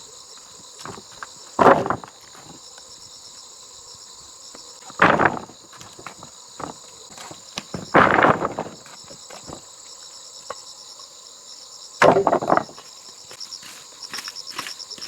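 Crickets chirping steadily, broken by four loud, brief noises a few seconds apart, each about half a second long.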